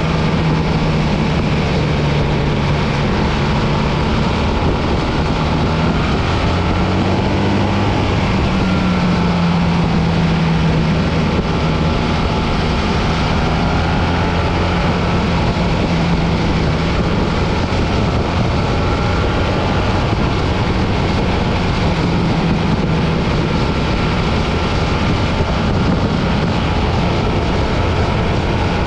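BMW R 1300 GS boxer-twin engine running at a steady cruise with slight rises and falls in pitch, under heavy wind and road noise.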